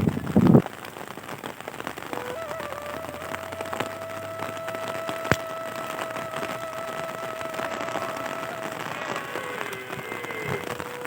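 Light rain falling, a dense patter of fine drops on surfaces, with one sharp tap about five seconds in. A faint steady tone sounds through the middle, and a louder sound at the very start stops in under a second.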